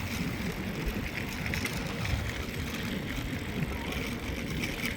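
Mountain bike rolling over a compact sand and gravel trail while being ridden: a steady low rumble of tyres and wind on the microphone, with small scattered ticks of gravel.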